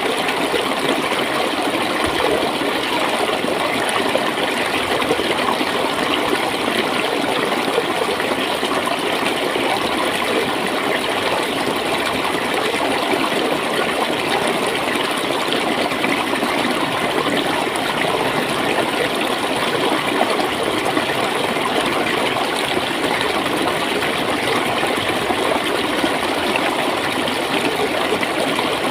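Clear flowing water gurgling steadily, with an even, unbroken rush.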